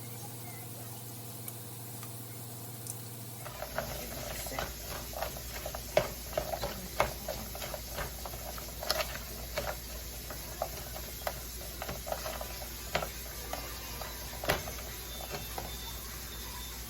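Irregular light clicks and taps of kitchen utensils while sliced onions are dressed with lemon and salt. These begin about three and a half seconds in, after a steady low hum.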